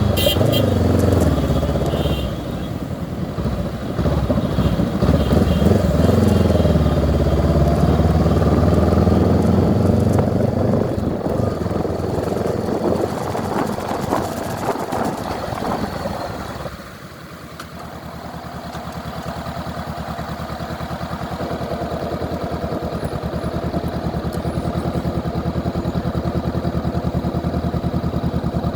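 Motorcycle engine running under way, its pitch rising and falling with the throttle. About two-thirds through the sound drops off abruptly, then settles into an even, rapid pulsing that slowly grows louder.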